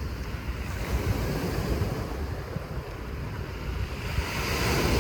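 Sea waves washing onto the shore, with wind buffeting the microphone; the surf swells louder near the end.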